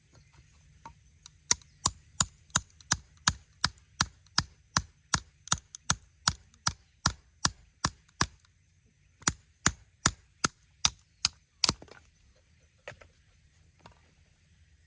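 A run of sharp, evenly spaced strikes, about three a second, about twenty in a row, then after a short pause seven more: a tool striking wood or a peg in steady rhythm.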